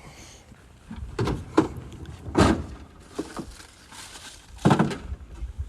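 Several knocks and thuds of objects being handled and set down during clean-up, about four of them spread over a few seconds.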